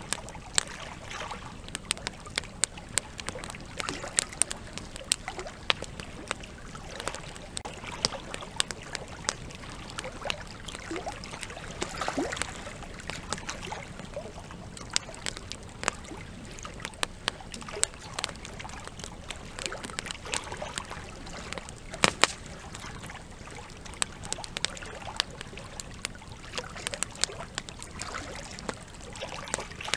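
Wood campfire crackling with many irregular sharp pops, over a steady rush of flowing river water. One pop about two-thirds of the way through stands out as the loudest.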